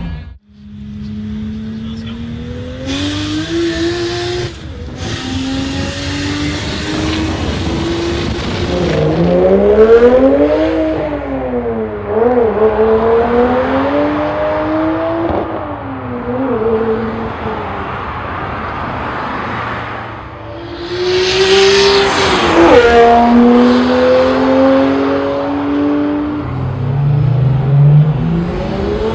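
Turbocharged BMW N54 straight-six under hard acceleration. The revs climb in a long pull with a short break for a gear change about five seconds in, then rise and fall several times, and climb again in a second pull near the end.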